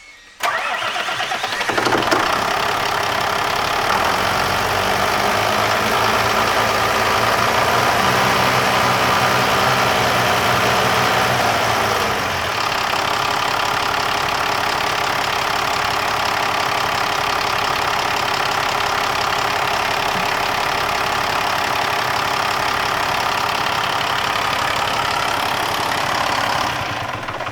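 Used Mack-Renault M510 diesel truck engine being started: it cranks and catches within the first couple of seconds, runs at a fast idle, then settles to a lower steady idle about halfway through, and is shut down near the end. It starts and runs well.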